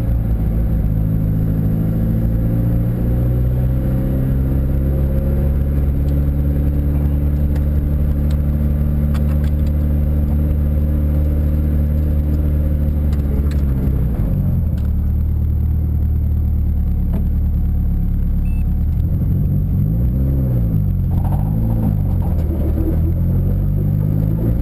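Mitsubishi Lancer GSR's engine and exhaust heard from inside the cabin, running at low revs as the car rolls slowly. The engine note falls gradually over the first half, then holds steady with a few small rises and falls in revs near the end.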